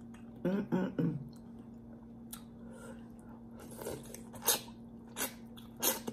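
Close-miked eating of a stewed turkey neck bone held in the hands: a short hummed 'mm' about half a second in, then wet chewing, sucking and lip smacks as meat is bitten and pulled off the bone, with several sharp smacks in the second half. A faint steady hum sits underneath.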